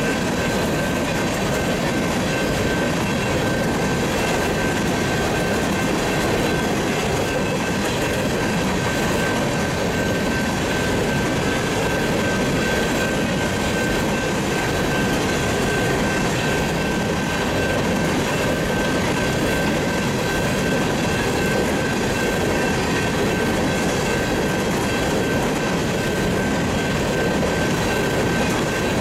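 Empty coal gondolas of a freight train rolling past: a steady, unbroken rumble and rattle of steel wheels on rail, with a thin high tone held steady under it.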